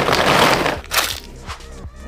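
A dense crackling burst that dies away within about a second, over background music.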